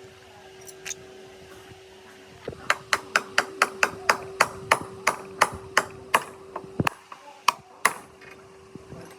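Rapid series of sharp metal taps, about three a second for some four seconds, then two more. A steady hum runs underneath.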